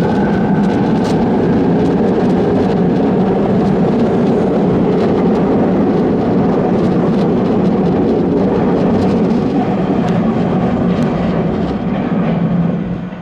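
Train running through the station at close range: a loud, steady rumble of wheels and running gear, with faint clicks over it.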